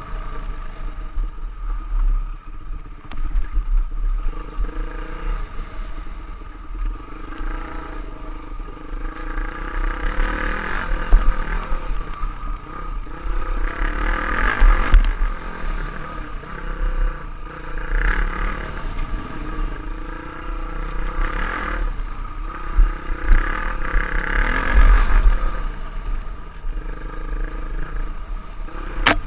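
Dirt bike engine revving up and easing off again and again as it is ridden, over a steady low rumble.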